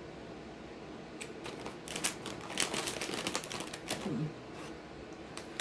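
Plastic snack packaging crinkling and crackling as it is handled, with a run of quick, sharp crackles through the middle.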